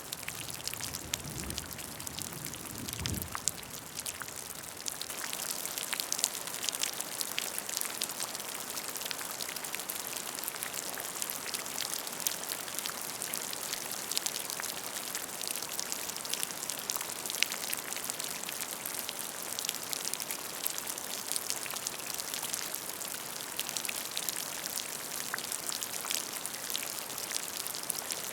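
Steady rain falling into a puddle: a dense patter of many small drops splashing on water. A brief low rumble sounds in the first few seconds.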